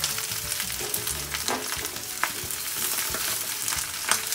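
Deep-fried lobster pieces sizzling in hot oil in a wok with scallions and ginger, stirred with a metal spatula that clinks and scrapes against the pan. The sharpest clink comes near the end.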